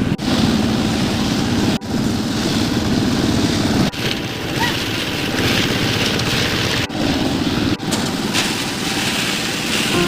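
A machine running steadily amid construction-site noise, in short clips joined by abrupt cuts.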